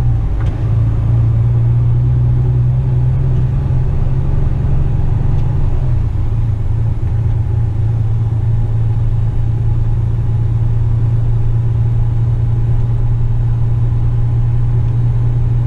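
Western Star tipper truck's diesel engine running steadily under way, a low drone whose note shifts slightly about six seconds in.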